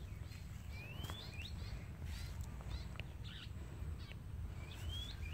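Wild birds calling: scattered short chirps and two rising whistled calls, one about a second in and one near the end, over a faint steady low rumble.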